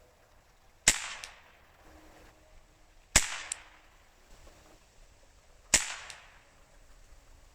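Beeman Chief II Plus-S .22 pre-charged pneumatic air rifle fired three times, about two and a half seconds apart. Each sharp crack is followed about a third of a second later by a fainter click.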